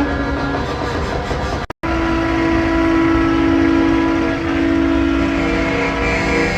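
Train-style air horn on a show truck blowing a chord of several tones: one blast ends right at the start, then after a brief break a single long blast is held for about four and a half seconds.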